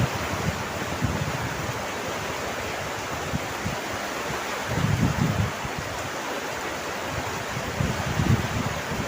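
Steady rain, a dense even hiss, with low rumbles swelling about five seconds in and again near the end.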